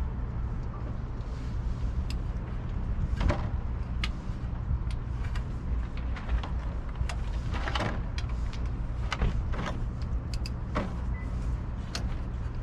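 A steady low hum with scattered sharp clicks and knocks of hand work on a motorcycle, about a dozen, with the busiest cluster a little past the middle.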